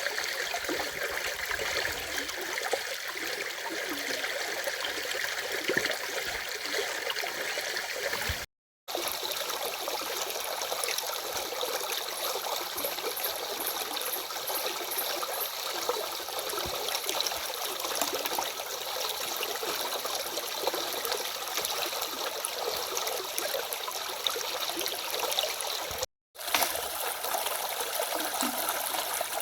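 Stream of running water, a steady rush and trickle with little low rumble. The sound drops out completely twice, each time for a fraction of a second: about 8 seconds in and about 26 seconds in.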